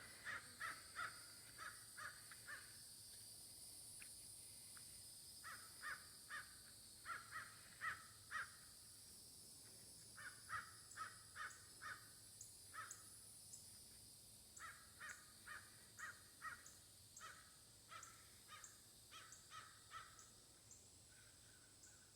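A crow cawing faintly in bouts of several short caws, with a few seconds' pause between bouts.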